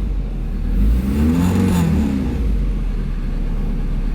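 1994 Nissan 240SX's 2.4-litre four-cylinder engine idling steadily, heard from inside the cabin as a low rumble. A short sound that rises and falls in pitch comes about a second and a half in.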